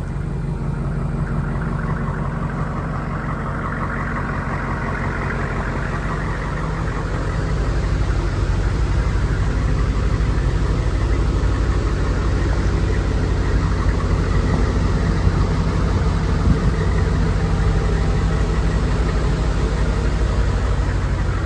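AM General M1165A1 HMMWV's 6.5-litre turbo-diesel V8 idling steadily, growing a little louder several seconds in.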